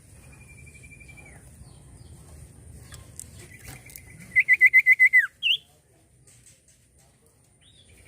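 Common iora (cipoh) singing: a drawn-out whistle, then a longer steady whistle that breaks into a loud, rapid trill of about six notes and slurs downward, followed by one short higher note.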